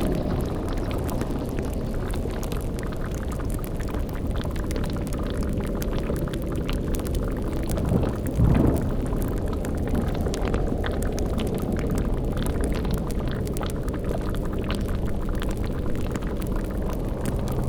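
Layered horror-ambience bed: a steady low rumble with bubbling like a boiling cauldron and fine fire crackle throughout. About halfway through, a short, louder low-pitched swell rises over it.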